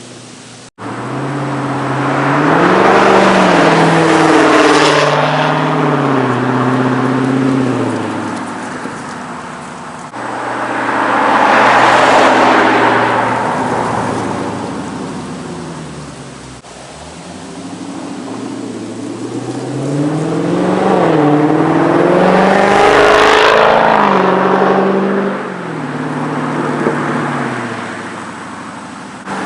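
Exhaust of a Dodge Charger Scat Pack's 6.4-litre HEMI V8, with Dynomax mini race bullet mufflers in place of the mid mufflers and the stock resonators kept, accelerating hard three times. The pitch climbs and drops back at each gear change.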